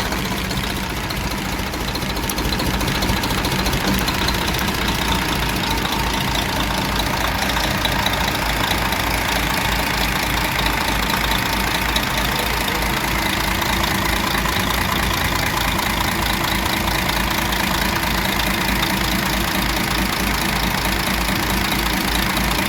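DAF 105 truck's six-cylinder diesel idling steadily just after starting, with an even low pulse and a knock. The engine came in for a knock that drums back into the air filter.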